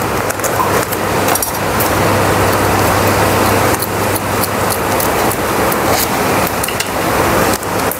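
Webfoot octopus and pork belly stir-fry with cabbage sizzling steadily in a hot pan over a low steady hum, with a few light clicks.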